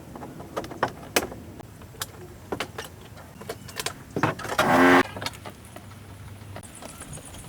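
Scattered clicks and knocks of hands-on work on an old car, with one loud buzzing burst lasting about half a second, about four and a half seconds in.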